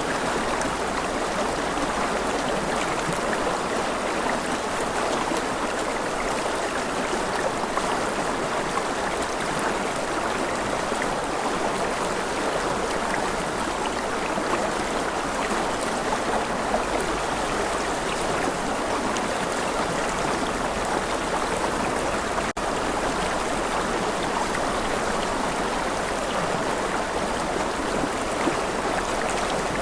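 Steady rushing and trickling of a flowing stream, one continuous wash of water noise, broken only by a split-second dropout about three-quarters of the way through.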